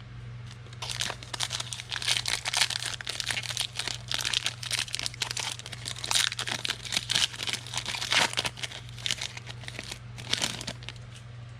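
A trading-card pack wrapper being torn open and crinkled: a dense run of crackling from about a second in until near the end, over a steady low hum.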